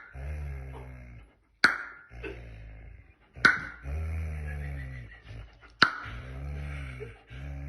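Dog growling in long, low rumbles, broken by a sharp snap about every two seconds: a warning meant to scare, not to bite.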